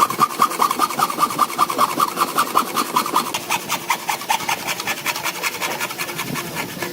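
Hand tool scraping wood in fast, even back-and-forth strokes, about five or six a second, growing softer after about four seconds.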